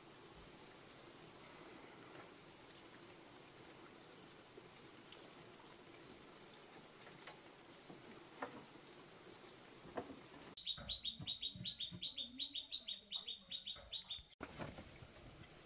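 Faint steady insect hum. About ten seconds in, a bird gives a quick run of short, high chirps, about six a second, for nearly four seconds, with a few low knocks under it.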